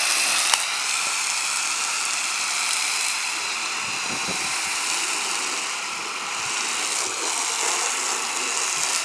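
Steady hiss of water spraying onto a car during a wash.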